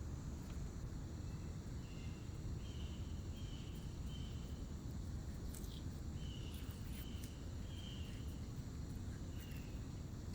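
Insect chirping: about ten short, even, high-pitched chirps, each under half a second, with a pause of nearly two seconds in the middle, over a steady low hum. A few sharp clicks come in the second half.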